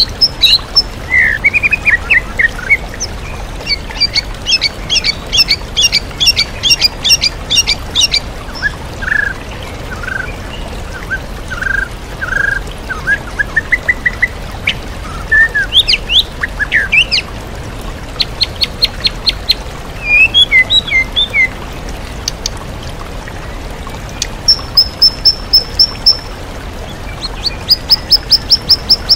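White-rumped shama singing a varied, loud song of quick repeated high notes, trills and lower whistled phrases, full of mimicked calls of other birds. Steady rushing waterfall underneath.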